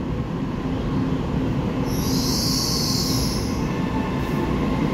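Taiwan Railways EMU3000 electric multiple unit (set EMU3005) running in along an underground station platform: a steady rumble of wheels and running gear. About two seconds in, a high-pitched squeal joins it for over a second.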